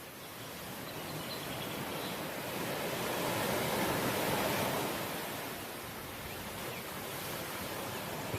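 Sea waves breaking on the shore: a steady rushing surf that swells to its loudest about halfway through and then eases off.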